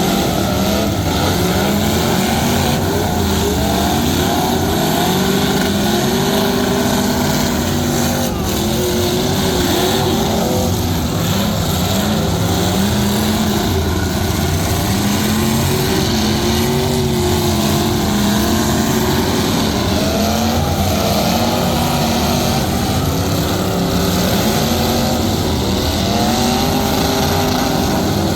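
Truck engines running loudly, several at once, their pitch rising and falling over one another as they rev up and down.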